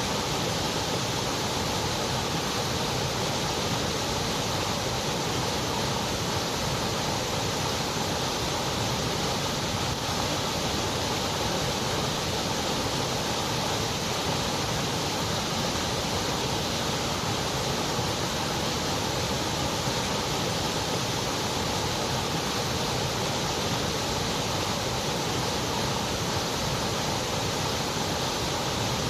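Continuous white noise: an even, unchanging hiss with no breaks or variation.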